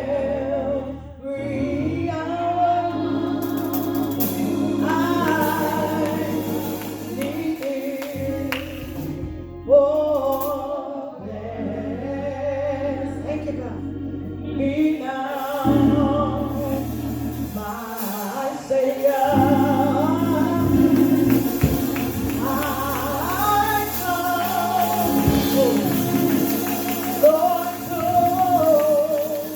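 Gospel praise music: a solo singer with vibrato over a sustained keyboard-like accompaniment, with other voices joining at times.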